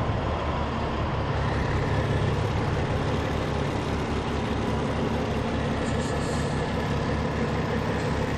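Rally-raid race truck's heavy diesel engine idling at the start line: a steady low rumble with an even throb, no revving.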